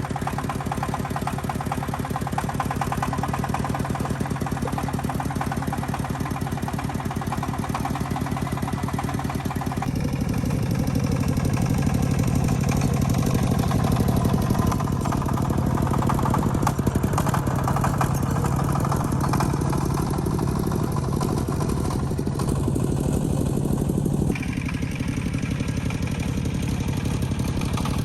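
Tractor engine running steadily with a rapid, even beat. Its sound changes abruptly about ten seconds in and again near the end.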